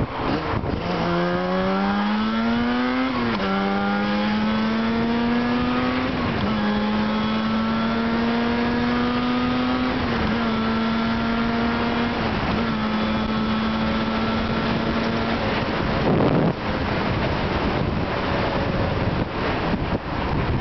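Yamaha RD250LC two-stroke twin on Allspeed expansion-chamber exhausts, pulling up through the gears with the pitch dropping at each shift, then holding a steady cruise. A short rush of wind noise comes near the end.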